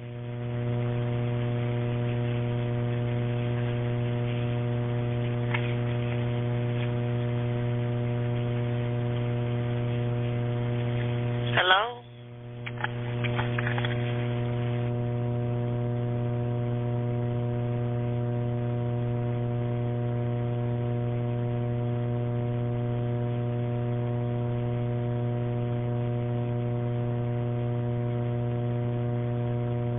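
Steady electrical hum on an open telephone line: a low tone with an even stack of overtones. About twelve seconds in, a brief voice cuts through, the hum drops out for a moment, and then it comes back.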